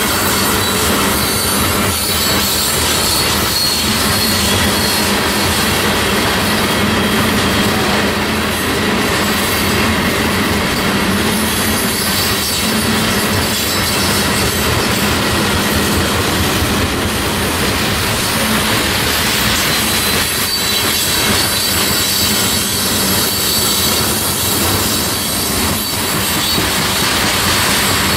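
Railroad cars rolling past in a steady, continuous rush of wheel-on-rail noise, with rhythmic clicking of wheels over the rail joints and a thin, high wheel squeal that comes and goes.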